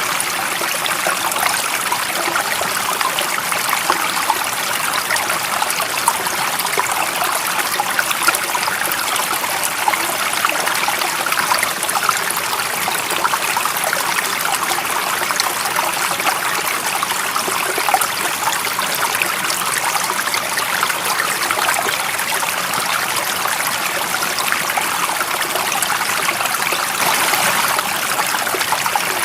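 Running water of a stream, a steady rushing with many small splashes and trickles.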